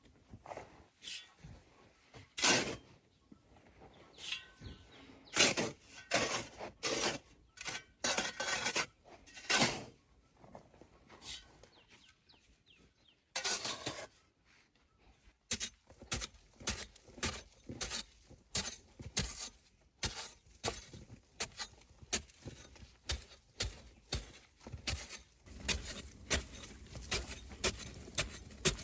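Hand-tool work: irregular knocks and scrapes, then from about halfway a steady run of strikes about two a second.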